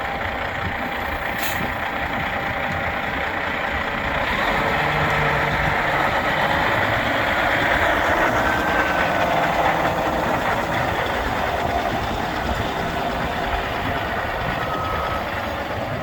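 1995 Peterbilt 377 heavy diesel truck running steadily, getting somewhat louder from about four seconds in.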